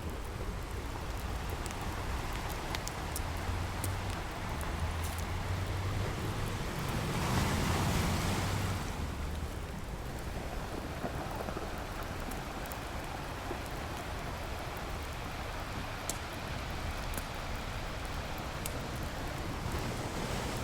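Ocean waves washing on a beach, with a campfire crackling over them. The wash is steady, with one wave swelling louder about seven seconds in, and sharp little pops of the fire come scattered throughout.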